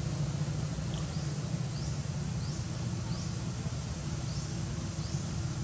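A bird repeats a short, high, rising chirp about every two-thirds of a second over a steady low hum.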